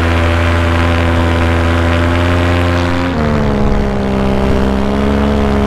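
Paramotor engine and propeller running steadily in flight, heard from the pilot's seat. About three seconds in, the engine speed drops and it carries on at the lower pitch.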